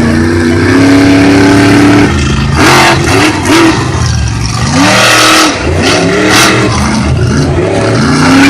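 Monster truck engines revving hard in a race, their pitch climbing and dropping again and again with the throttle, broken by a few short, loud bursts of noise.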